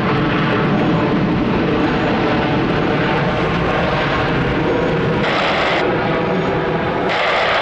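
Jet airliner engines, a steady loud rumble with a hissier surge about five seconds in and again near the end.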